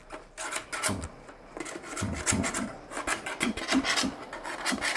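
A tool pushing and tamping packing down inside a Yoshimura RS-12 muffler canister: irregular scraping rubs with several dull thuds. The thud is the sign that the packing is pushed all the way down and compressed tight.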